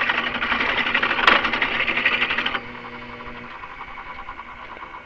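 Electric drill running under load, boring out a hole to widen it for a shaft. About two and a half seconds in it is switched off and its motor winds down.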